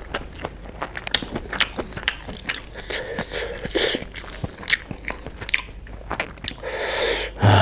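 Close-miked chewing of a mouthful of chicken biryani, with many small wet mouth clicks and smacks, and a brief low voice sound near the end.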